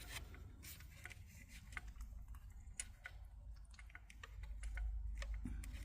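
Faint, irregular little clicks and taps of an iridium spark plug, held in a rubber hose, knocking against the inside of the spark plug well as it is fished down into the threaded hole, over a low hum.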